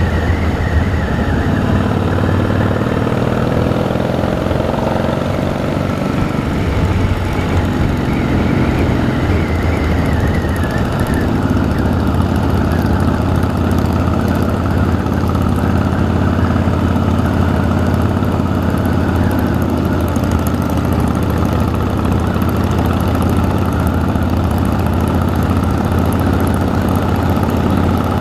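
Harley-Davidson V-twin motorcycle engine running steadily, its pitch shifting a little over the first ten seconds and then holding even.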